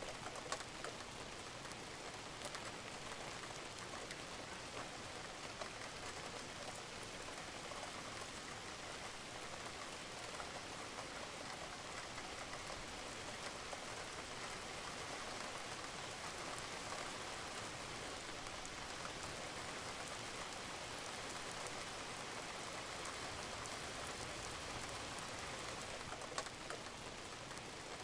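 Steady rain on a roof, an even hiss with scattered drips, two of them louder: one just after the start and one near the end.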